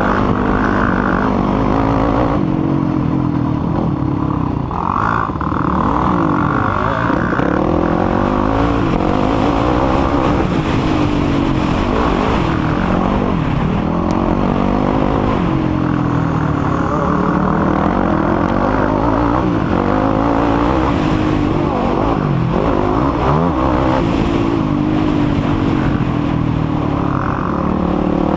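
Racing quad (ATV) engines on a motocross track, revving hard and easing off again and again, the pitch rising and falling with no break.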